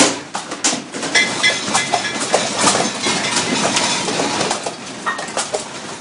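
Continuous clattering and rattling of loose objects and fittings shaken by a strong earthquake, with rapid knocks and a few brief squeaks or creaks.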